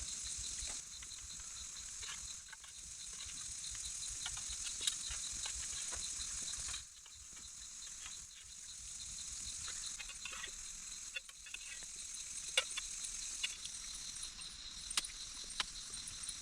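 Rain falling steadily, with scattered sharp ticks of drops and a steady high hiss. It dips suddenly about seven seconds in and builds back.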